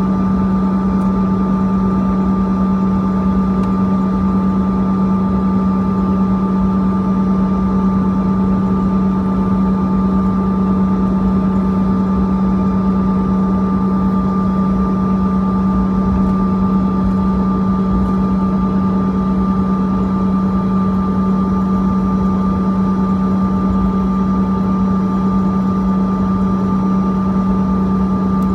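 Steady cabin noise inside a Bombardier CRJ-200 regional jet: the drone of its rear-mounted GE CF34 turbofan engines with rushing air noise, a strong low hum and two fainter high tones holding constant.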